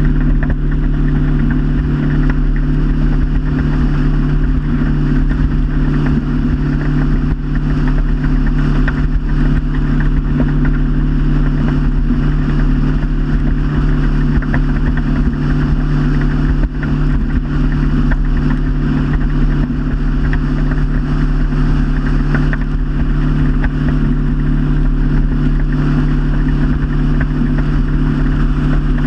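Motorboat engine running steadily at cruising speed, a constant low drone with an even hiss over it.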